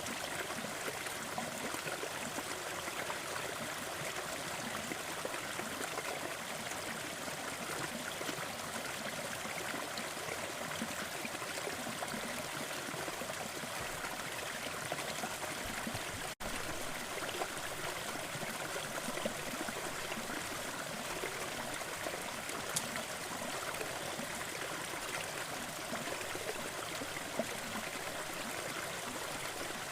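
Small forest waterfall, water pouring and splashing in a steady rushing flow, with a split-second dropout about halfway through.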